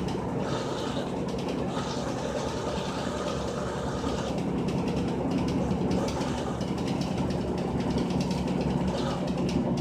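Frigidaire Gallery Series top-load washing machine running: a steady motor hum with faint ticking, getting a little louder about four seconds in.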